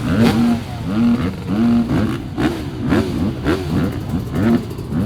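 Several motocross bikes revving their engines, with overlapping short throttle blips that rise sharply in pitch and sometimes hold briefly at the top, about two a second.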